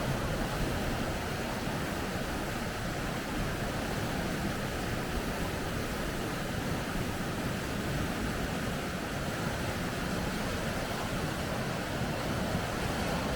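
River rapids: water rushing and churning in a steady, unbroken roar.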